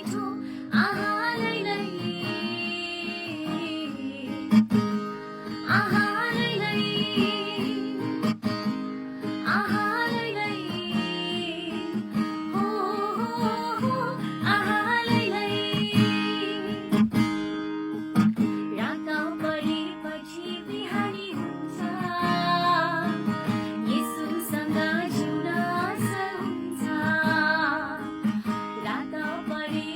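A Christian worship song sung by a solo voice over strummed acoustic guitar.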